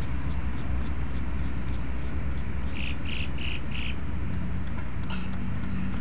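A bird gives four short, high calls in quick succession, about three a second, a little under halfway through.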